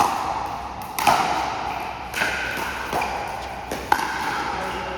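A pickleball rally: paddles strike the plastic ball with sharp pocks, and the ball bounces on the court, about once a second, six hits in all.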